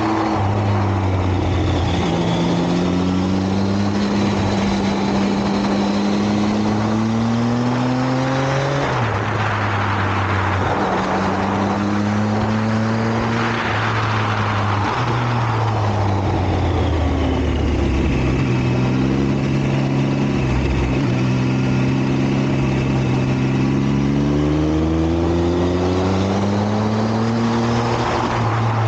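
Motorcycle engine running at road speed, its pitch climbing and dropping several times as the rider works the throttle and gears, with wind rushing over the microphone that swells twice in the middle.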